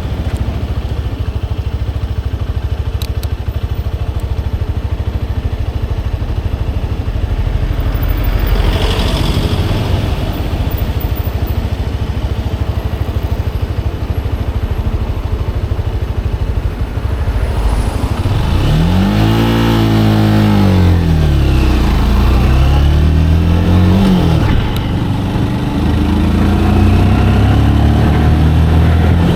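Motorcycle engine under way, a steady low drone. About 18 seconds in, the revs rise and fall twice as it speeds up and slows, and the pitch climbs again near the end.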